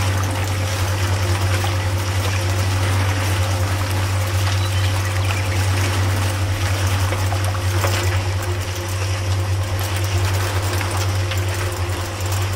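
Steady trickling of liquid over a constant low hum.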